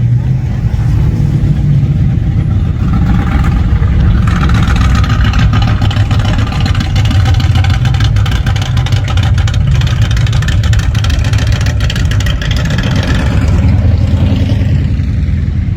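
Car engines running as vehicles cruise slowly past, with a steady low rumble throughout. A louder passing vehicle swells in from about three seconds in and fades away near the end.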